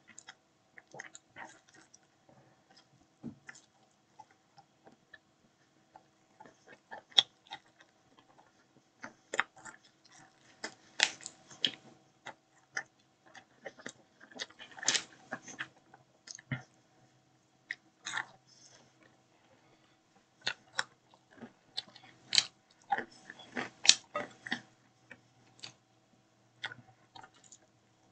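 A person biting into and chewing a slice of pizza close to the microphone: irregular mouth clicks and smacks, in denser clusters now and then, over a faint steady hum.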